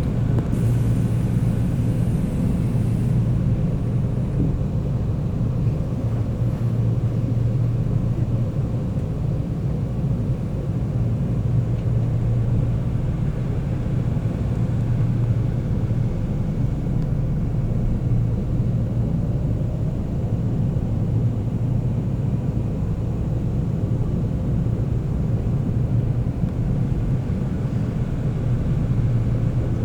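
Seoul Subway Line 9 express train running between stations, heard from inside the car: a steady low rumble and hum of wheels and traction motors.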